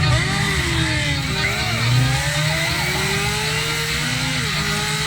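Several car engines revving and accelerating over a low rumble, their pitches rising and falling and overlapping: a film car-chase sound mix.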